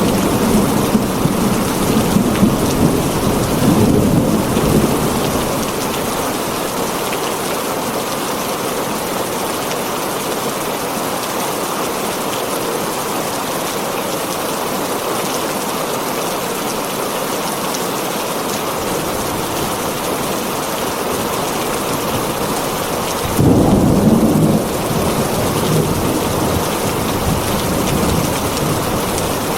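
Heavy rain drumming steadily on a tin roof, with thunder: a rumble that fades over the first few seconds, then a sudden loud clap about 23 seconds in that rumbles on afterwards.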